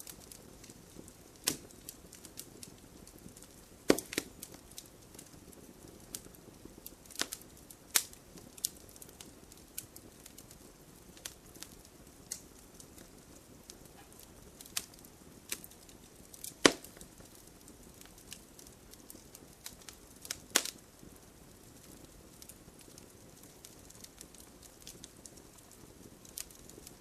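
Wood fire crackling in a fireplace: irregular sharp pops and snaps, a handful of them much louder than the rest, over a soft steady hiss.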